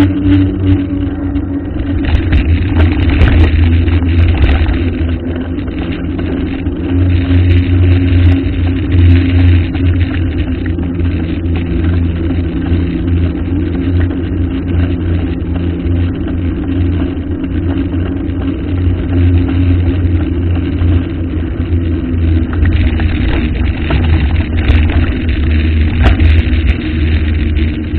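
Motor vehicle engine running steadily, with most of the sound low and deep and a few steady engine tones that drift slightly in pitch.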